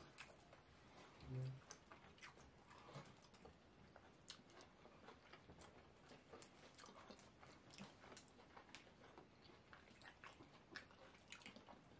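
Faint, close-up eating sounds: scattered small wet clicks of chewing and of fingers pinching fufu in slimy okra soup. A brief low hummed "mm" comes about a second in.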